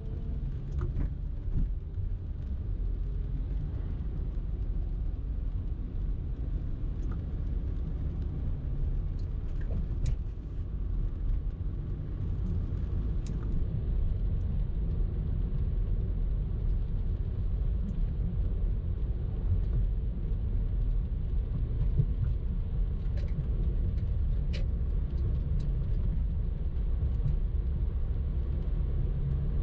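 A car being driven in steady traffic: the engine and tyres on the road make a continuous low rumble, with a few faint ticks.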